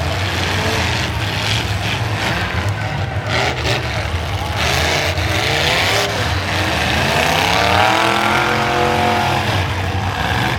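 Demolition derby cars' engines running and revving under a steady low drone, the engine pitch climbing and falling twice, about three seconds in and again in the second half, with short bursts of noise between.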